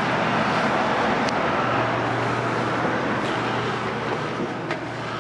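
Steady road traffic noise with a low hum underneath and a few faint clicks, fading slightly near the end.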